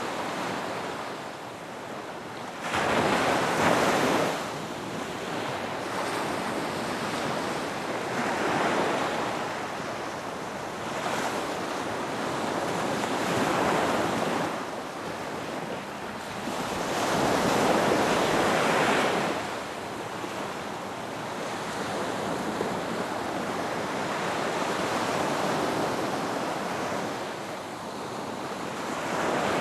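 Ocean waves breaking and washing up a beach, a surge of surf every few seconds over a steady wash. The biggest break comes about three seconds in, and a long one in the middle.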